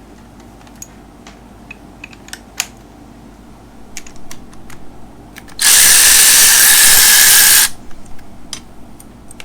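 A power tool runs for about two seconds and cuts off, most likely spinning out the 15mm bolt of a harness ground strap on an LS engine. Light clicks and taps of tool handling come before and after.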